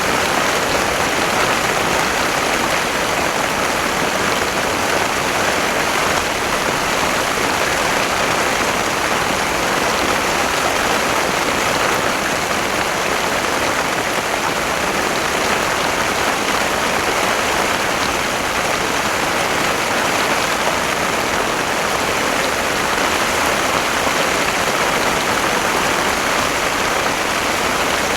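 Heavy rain falling steadily in a torrential downpour: a dense, even hiss with no letup.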